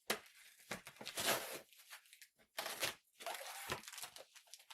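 Cardboard box and packing material being handled and pulled open, rustling and tearing in several bursts, the loudest about a second in.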